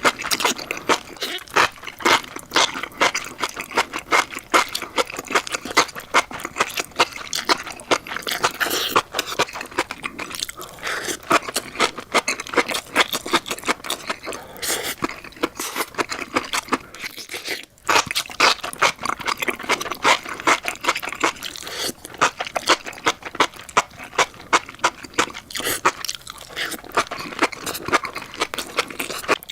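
Close-miked chewing of spicy enoki mushrooms: a dense, rapid run of crunchy clicks that breaks off briefly a little past the middle.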